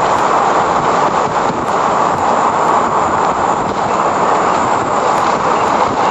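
Heavy rain and hail pounding on the car, a dense, steady din of countless impacts.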